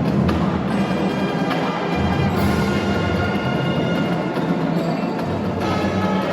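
Marching band playing a pop-song arrangement: sustained brass chords over steady drums and percussion.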